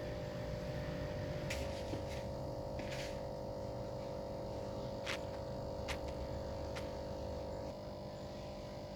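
Steady electric hum of aquarium pump equipment, with a few short clicks and hisses; part of the hum cuts out near the end.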